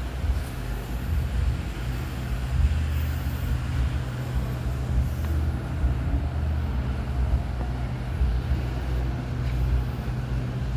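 Air conditioner running: a steady low hum under an even rushing sound that could pass for rain.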